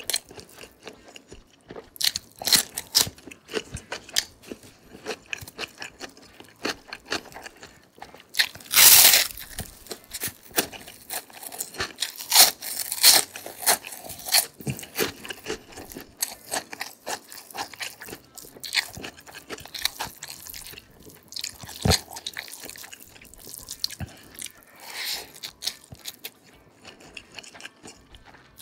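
Close-miked mukbang eating: irregular crunching and chewing of food, with a louder, longer crunch about nine seconds in.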